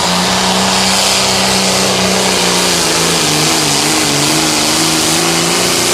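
Limited pro stock pulling tractor's diesel engine running loud and steady at full throttle while pulling the weight sled down the track.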